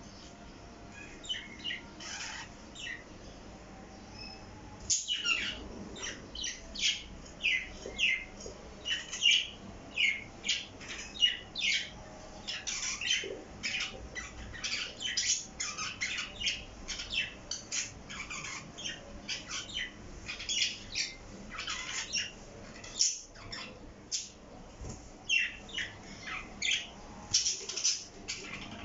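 Parrots chirping and squawking in quick, short, high calls, scattered for the first few seconds and then coming almost without a break.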